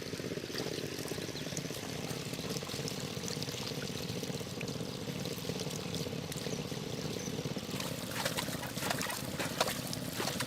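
Water pouring and trickling over a steady low hum, with sharper, irregular splashing in the last couple of seconds.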